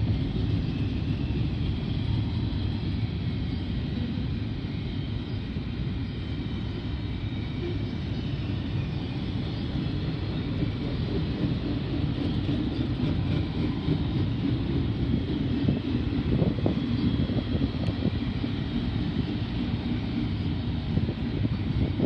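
BNSF freight train's double-stacked container cars rolling past at speed: a steady rumble of wheels on rail.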